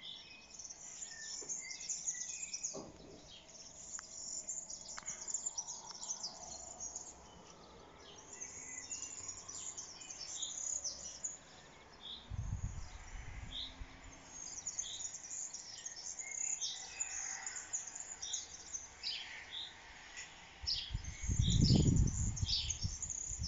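Songbirds singing and calling, with a run of short, high chirps repeated about once a second through the second half. Two brief low rumbles break in, the louder one near the end.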